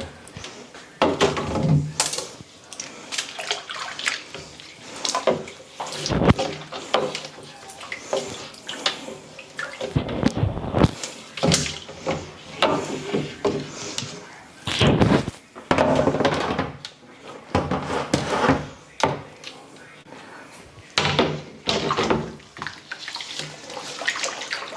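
Hand-washing food containers in a kitchen sink: running tap water and splashing, with irregular knocks and clatter as the containers are handled and scrubbed.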